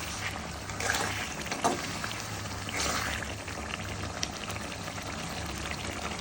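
Curry masala cooking in a pan: a steady bubbling, liquid sound over a low hum, with a few light clicks.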